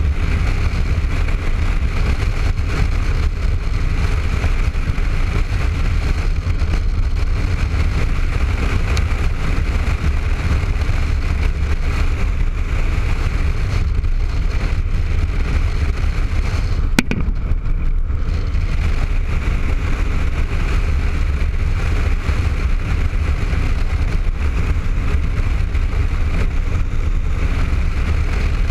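Steady wind rumble and road noise on a helmet-mounted camera riding a Honda ST1300 motorcycle at speed, with the engine running underneath. A single sharp click comes about seventeen seconds in.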